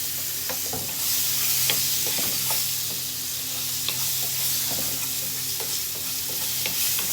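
Mushrooms frying in butter in a pan: a steady sizzle, with scattered clicks and scrapes of a utensil stirring them and a low steady hum underneath.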